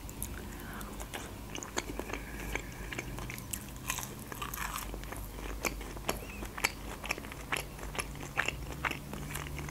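Close-miked biting and chewing of a crunchy toasted hot sandwich, with irregular crisp crunches and mouth clicks, several a second.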